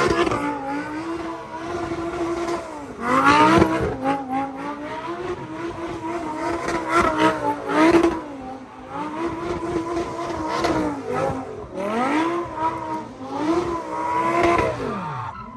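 High-revving car engine driven hard: the revs climb, hold high for a second or two, then drop, about six times over, with tyre squeal underneath.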